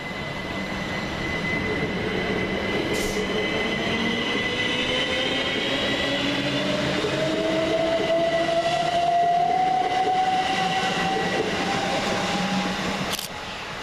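Southern Class 377 Electrostar electric multiple unit pulling away from the platform, its traction motor whine climbing steadily in pitch as it gathers speed. The sound drops off suddenly near the end.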